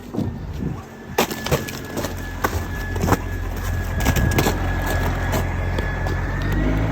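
Ice and packed snow crunching and cracking underfoot, with several sharp snaps, while a stuck vehicle's engine runs low on the ice. A thin steady whine runs through it and rises near the end.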